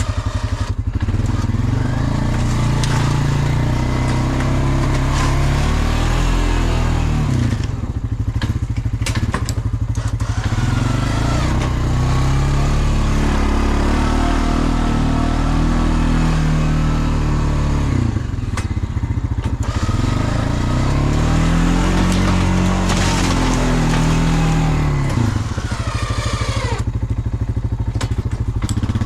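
Engine of a snow-plowing vehicle under load, its pitch rising and falling again and again as it drives back and forth pushing snow, with a few brief dips in the sound.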